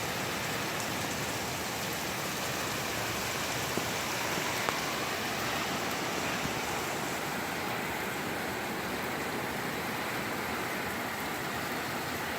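Heavy rain pouring down in a downpour: a steady, even hiss of rain falling on the ground and roofs.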